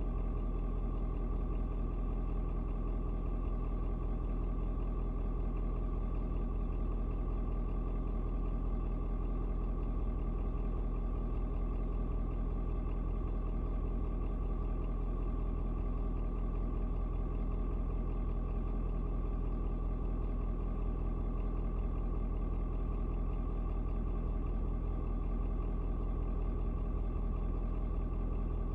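Ford Super Duty's 6.7-litre Power Stroke turbo-diesel V8 idling steadily, still cold from a cold start.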